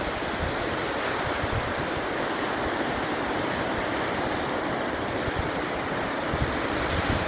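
Rough sea surf crashing and washing onto the beach in a steady roar, with strong wind buffeting the microphone in low rumbles.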